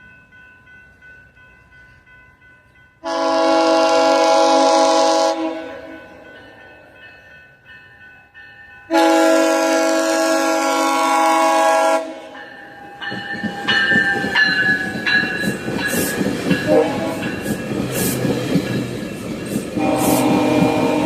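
A passing train's multi-chime air horn sounds two long blasts. Then the train goes by with the rumble and clickety-clack of its wheels over the rail joints, and the horn starts a third blast near the end.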